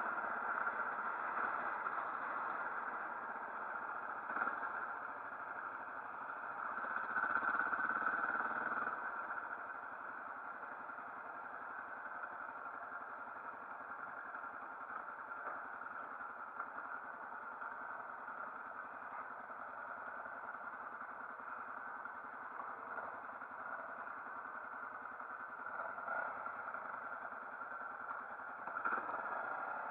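Motorcycle engine running steadily, briefly louder about eight seconds in, with a couple of faint knocks.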